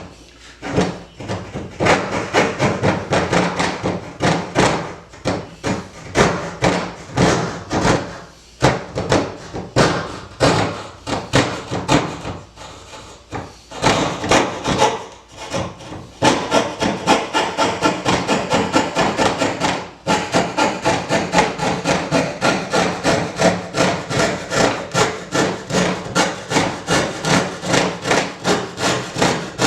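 Hand coping saw cutting through wood in quick back-and-forth strokes, about two to three a second. The sawing pauses briefly twice in the first half, then runs steadily.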